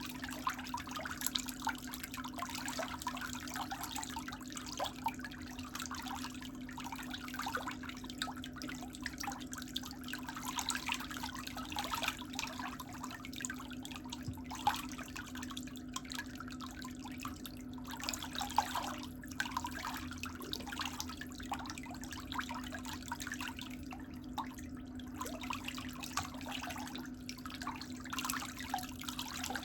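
Water trickling and splashing, over a steady low hum.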